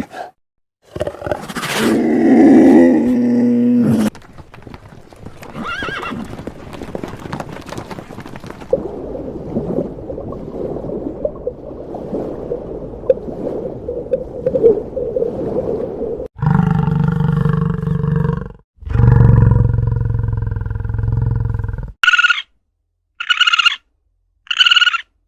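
A series of different animal calls one after another. About a second in comes a loud call lasting about three seconds, then a quieter rough, grumbling stretch of about twelve seconds. Two long, low, drawn-out calls follow, then five short high calls, evenly spaced, near the end.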